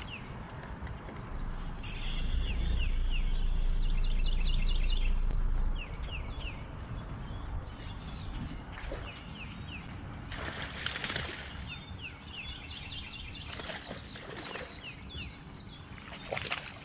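Small birds chirping, with repeated quick series of short sweeping notes. A loud low hum runs for about four seconds starting a couple of seconds in, then cuts off abruptly. Two brief louder noises come later, one around the middle and one near the end.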